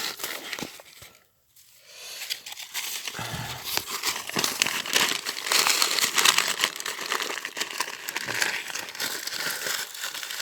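Paper being crumpled into balls and rustled as it is pushed into the kindling, a dense crinkling with a brief pause about a second in.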